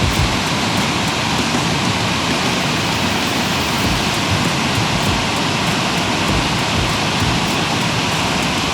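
Steady rush of a swift mountain creek pouring over cascades and a waterfall, the water running high and fast.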